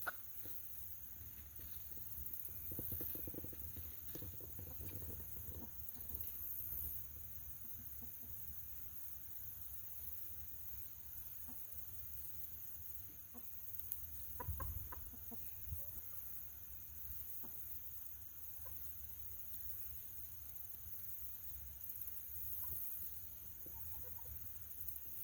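Backyard hens clucking quietly.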